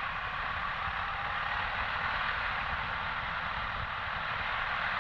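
Steady wind and road noise of a motorcycle ride, an even rushing hiss without any distinct engine note.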